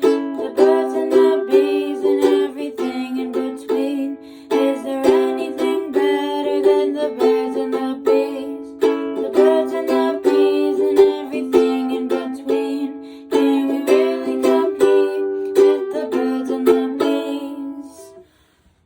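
Strummed acoustic string instrument playing a repeating chord pattern, ending with the last chord dying away near the end.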